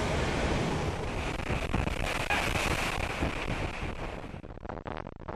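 Blizzard wind blowing hard across the microphone, a loud, steady rushing noise. About four and a half seconds in it drops suddenly to a quieter crackling.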